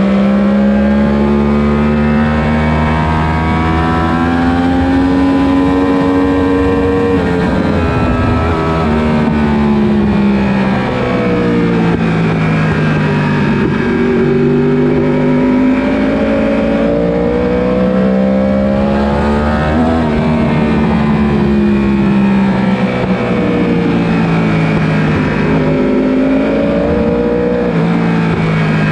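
Superbike 1000-class racing motorcycle engines at racing pace. The pitch climbs through the gears with sudden steps down at the shifts, falls away when the bike slows, and climbs again, several times over.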